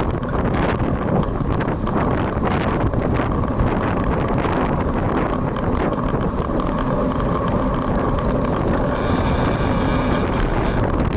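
Strong wind buffeting the built-in microphone of a bicycle-mounted action camera, a steady low rumbling noise, with a faint high whine coming in near the end.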